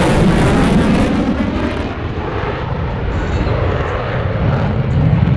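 Loud jet engine noise from an F/A-18 making a pass. The high hiss drops away about two seconds in, leaving a lower, steady rumble.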